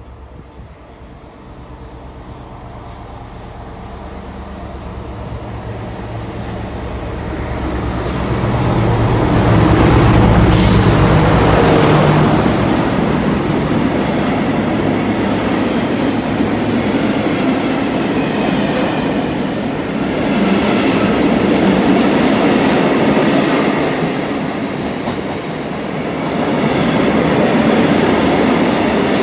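British Rail Class 60 diesel locomotive working hard under power as it approaches and passes, its engine loudest about ten seconds in. It is followed by a long rake of loaded freight wagons rolling by, with a high, thin wheel squeal through much of the second half.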